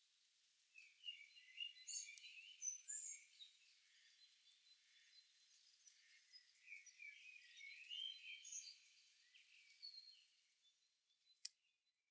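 Faint birdsong: small birds chirping and twittering in quick short notes, fading out near the end, with a single sharp click about eleven and a half seconds in.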